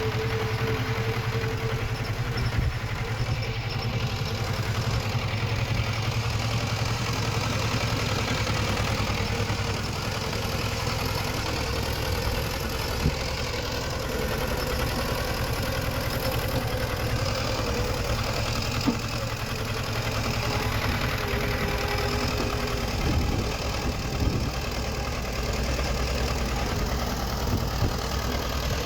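Diesel engine of heavy earthmoving machinery running steadily, with a couple of brief sharp knocks.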